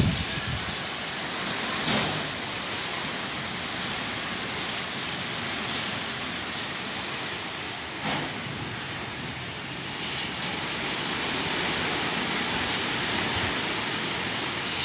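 Heavy rain pouring down in a steady hiss, with a few brief louder hits at the start, about two seconds in and about eight seconds in.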